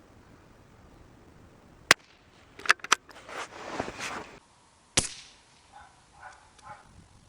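Two sharp reports from a .22 LR bolt-action rifle, about three seconds apart, with quick clicks and a rattle between them from the bolt being worked. A few faint soft knocks follow near the end.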